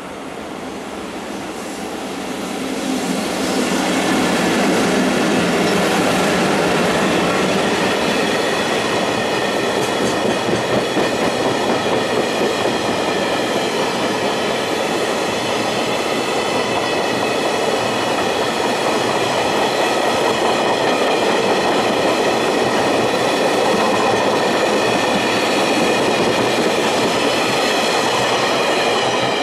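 A double-headed pair of JR Freight EF64 electric locomotives followed by a long train of empty Taki 1000 tank cars passing close by: the sound grows over the first few seconds as the locomotives arrive, then holds as a loud, steady rumble of steel wheels on the rails with a thin high ringing from the wheels.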